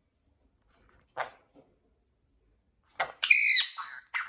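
Pet parrot giving one short, high-pitched call about three seconds in. A couple of sharp clicks come before it, and quick clicks follow near the end.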